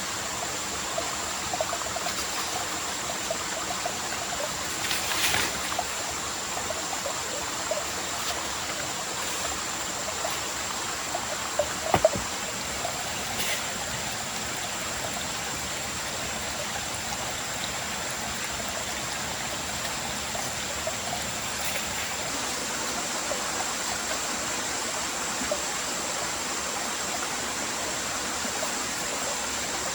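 Water running steadily in a forest stream, with a few faint clicks and one sharper knock about twelve seconds in.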